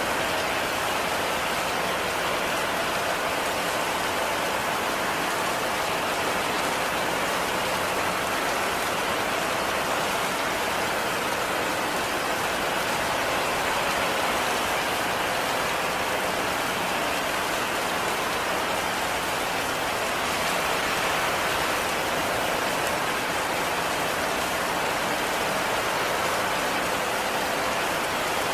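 Steady heavy rain falling, an even hiss of rainfall.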